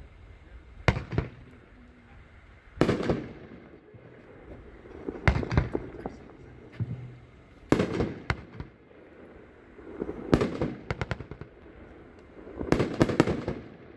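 Chain Reaction, a 126-shot consumer firework cake, firing in six volleys of sharp bangs and cracks, about one volley every two to two and a half seconds. Each volley is several reports in quick succession.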